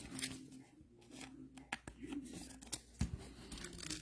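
Trading cards being handled at close range: a string of faint clicks, snaps and rustles of cards and wrapper.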